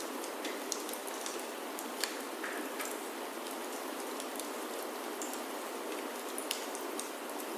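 Steady rain falling on a roof, an even hiss with scattered sharp ticks of drops or crackles through it.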